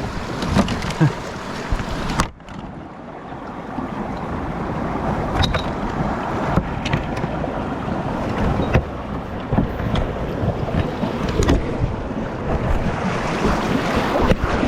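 Rushing river water and wind buffeting the microphone on a kayak moving through whitewater, with a few light knocks. The level drops sharply about two seconds in, then builds back up.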